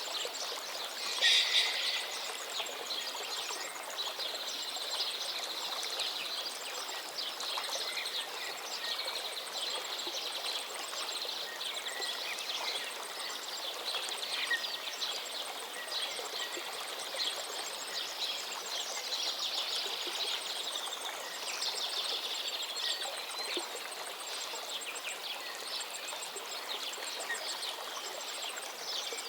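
A river flowing with a steady rush of water, with many small birds chirping and singing over it throughout. A brief, louder bird call comes a little over a second in.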